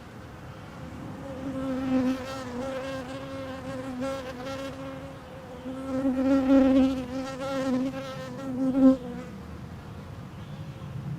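Honey bees buzzing close to the microphone, the pitched hum swelling and fading as they fly near; loudest about six to nine seconds in, then dying away.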